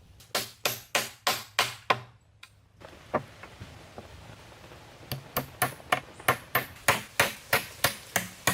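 A hand tool striking wood in quick, even blows, about three a second. The blows stop for a few seconds with only a couple of faint knocks, then resume at the same pace.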